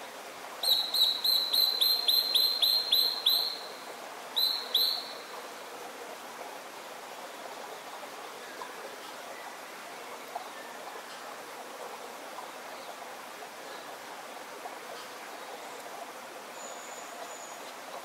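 A bird calling a rapid run of about a dozen loud, sharp, down-slurred notes, roughly four a second, then two more notes a second later. A steady background rush continues throughout.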